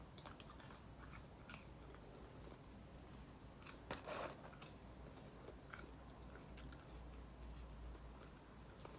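Faint close-up chewing and mouth sounds of a person eating fast food, with a louder bite about four seconds in.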